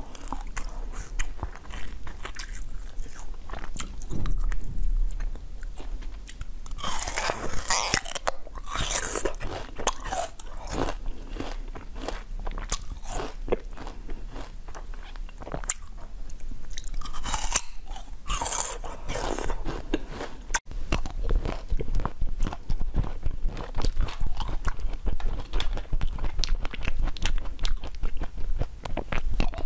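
Close-up biting and crunching of hard frozen ice sticks, with loud crunches in bursts. About twenty seconds in it switches to a fast, even crunching of frozen blueberries eaten from a spoon.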